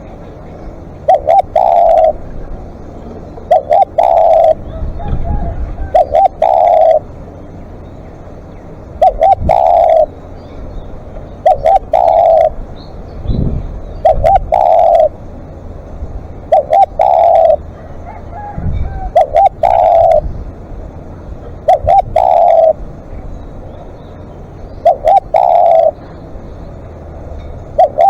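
Spotted dove cooing over and over, its call repeating every two to three seconds: a couple of short clipped notes followed by a longer drawn-out coo.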